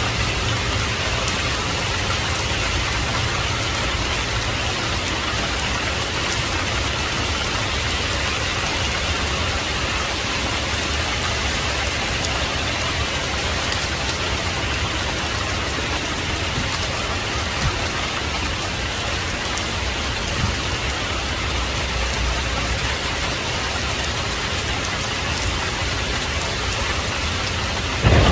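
Heavy rain falling steadily, an even hiss with a low rumble underneath and a few faint drop ticks.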